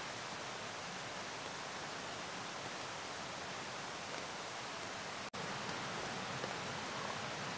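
Steady, even outdoor background hiss with no distinct events, broken by a sudden brief dropout about five seconds in where the audio is cut.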